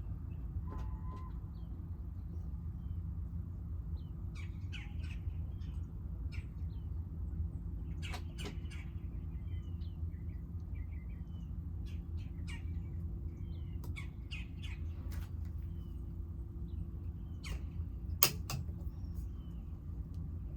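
Small birds chirping and calling now and then over a steady low hum, with a few sharp clicks, the loudest one near the end.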